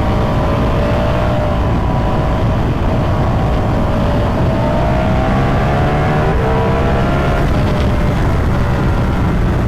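Ducati Multistrada V4 Pikes Peak's V4 engine running under way at fairly steady revs, its pitch easing down slightly and picking up again a few seconds in, over a heavy low rush of wind and road noise.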